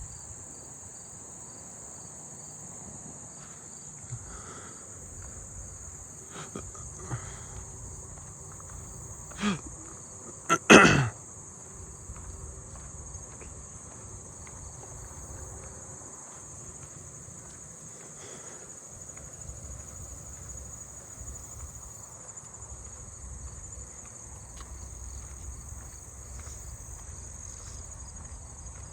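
Steady, high-pitched insect chorus of crickets, with handsome trigs trilling close by and fainter repeated chirps underneath. A short loud sound cuts in twice, about nine and a half and eleven seconds in.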